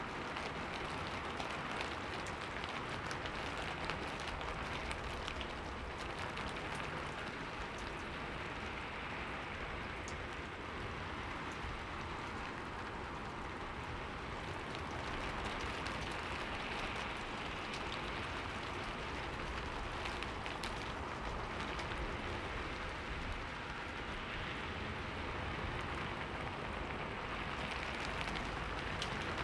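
Steady rain falling on a window, an even hiss with scattered sharp taps of individual drops.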